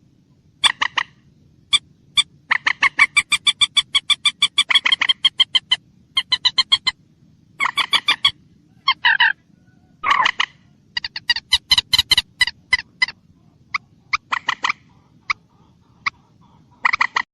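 Common moorhen calling: a series of short, pitched notes, running fast at about eight a second for a few seconds, then breaking into shorter bursts and single notes.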